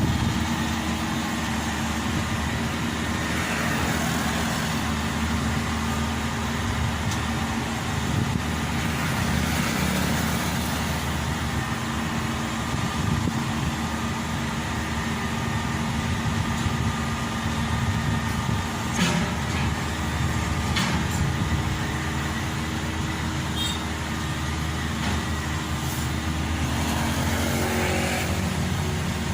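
Maxxi Bimo 102 rice combine harvester's engine running steadily, with a couple of sharp clicks about two-thirds of the way in.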